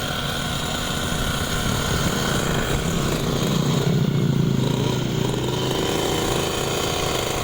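Mini motocross bike's small engine running steadily, its note rising a little around the middle.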